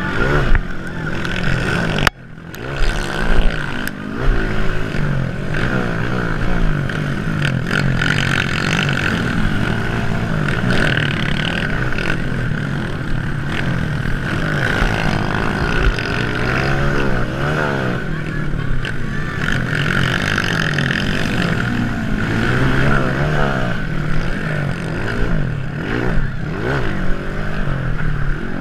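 Several motocross dirt bikes' engines running and revving around the track, their pitch rising and falling as riders accelerate and shift. The sound cuts out briefly about two seconds in.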